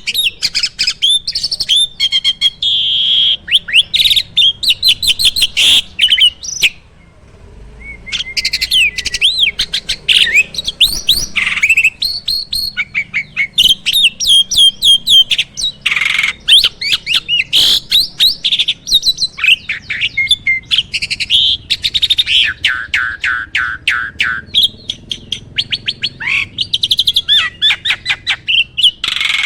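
Jalak (starling) singing a loud, continuous song of rapid chirps, whistles and trills, with a brief pause about seven seconds in. It is in full song, packed with imitated calls of other birds.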